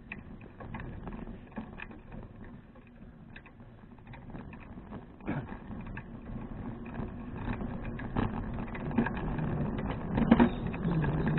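Bicycle riding noise picked up by a small action camera: rumbling wind and rolling noise with scattered clicks and rattles, growing louder toward the end, with a sharp knock about ten seconds in.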